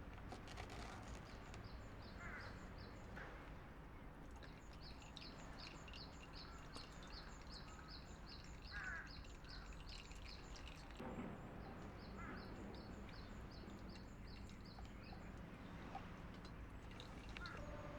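Quiet outdoor ambience with birds calling: a high chirp repeated about three times a second in two long runs, with a few other scattered calls, over a low steady background noise.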